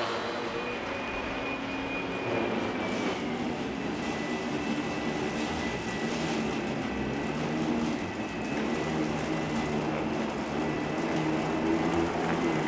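Russell Hobbs Athena 2 Pet upright vacuum cleaner running steadily on a rug, its motor giving a constant high whine over the suction noise.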